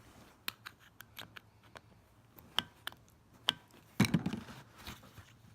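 Small metal clicks and taps from hand tools working at the parts of a dismantled semi-hermetic compressor, with a louder clatter about four seconds in. A part inside will not come out.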